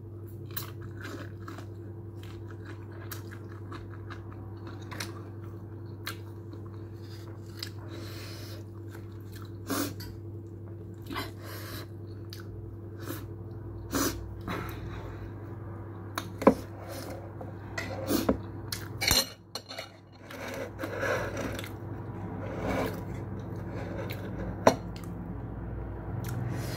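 A person chewing a mouthful of shawarma, with scattered short clicks and crunches of eating that come more often in the second half, over a steady low hum.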